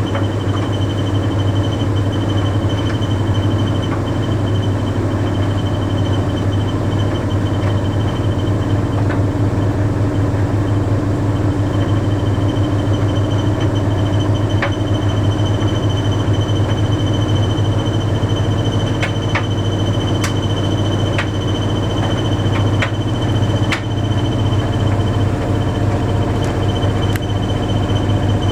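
Bosch Series 6 heat pump tumble dryer running mid-cycle: a steady low hum from its compressor and drum motor, with a thin high whine over the rumble of the turning drum. A few light clicks come about two thirds of the way through.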